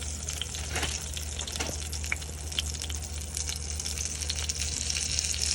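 Flour-tortilla quesadilla frying in oil in a skillet: a steady sizzle with scattered small crackles and pops.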